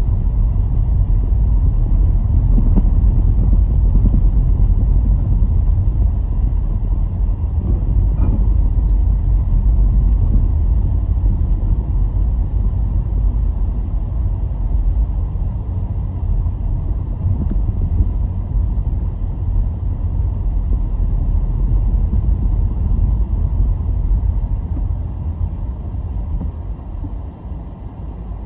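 Car on the move: a steady low rumble of road and engine noise that grows quieter near the end.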